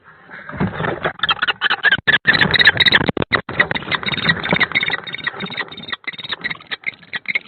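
Kestrel and barn owl fighting inside a nest box: loud, irregular scuffling and wing flapping with repeated harsh calls, starting about half a second in.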